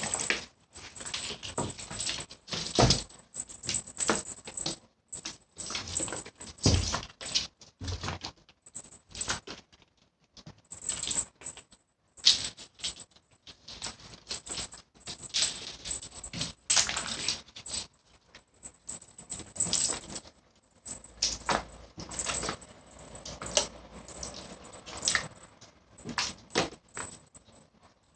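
Cats batting a small ball around: irregular light taps and rattles coming in quick clusters with short pauses between them.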